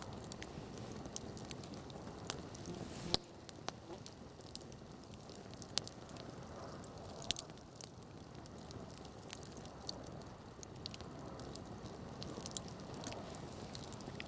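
Wood campfire crackling: irregular sharp pops and snaps over a low steady rustle of burning, with one louder snap about three seconds in.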